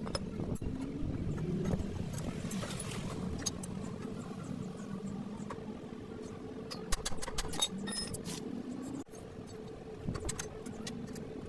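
An engine running steadily with a constant hum, with scattered light metallic clicks, a cluster of them about seven to eight seconds in.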